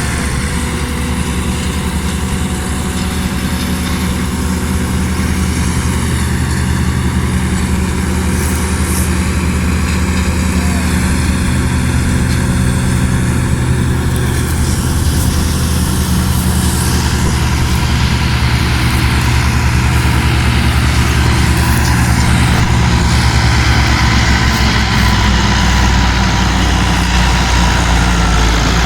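Tractor's diesel engine running steadily at a constant speed, getting somewhat louder about two-thirds of the way through.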